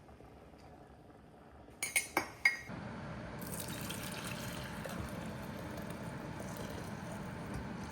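Four quick clinks of hard parts, then a steady sound of running or bubbling water that goes on without letting up, as the espresso machine's group head goes into Cafiza cleaning solution.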